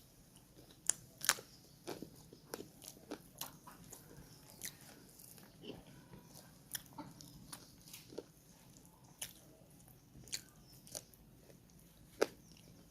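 Close-miked chewing and biting of chicken curry and rice: irregular wet smacks and sharp clicks from the mouth, roughly one or two a second.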